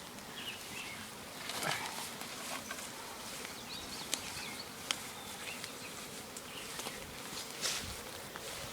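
A honeybee swarm buzzing as a steady hum, with a few faint clicks and a brief rustle about a second and a half in.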